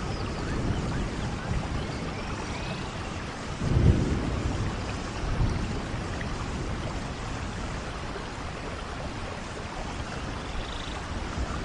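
Steady rainforest rain with low rolls of thunder, the strongest about four seconds in and a weaker one a second or so later.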